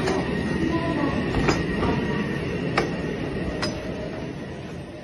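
Noise of a stopped commuter train at the platform with a thin steady high hum, broken by four sharp clacks as a portable metal boarding ramp is laid at the train door and a wheelchair rolls over it. The sound fades down over the last two seconds.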